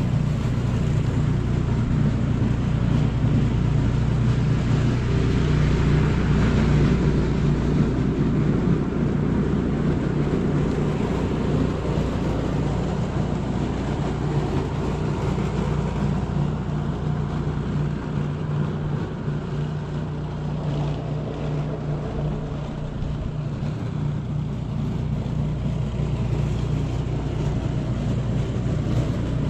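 A motor vehicle running steadily: a constant low engine drone under a rushing noise.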